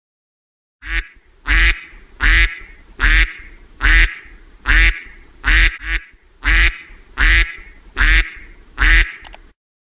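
About a dozen short animal calls in a steady series, less than a second apart.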